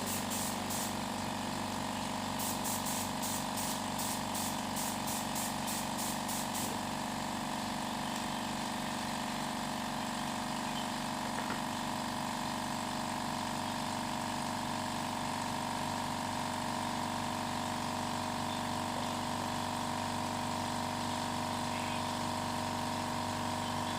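A motor running steadily with a constant hum. In the first few seconds it is joined by quick, evenly spaced ticks, about three a second.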